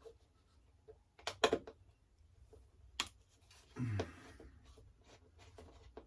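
A few sharp clicks and taps of small hand tools and plastic model parts being handled on a workbench, with a short duller knock about four seconds in.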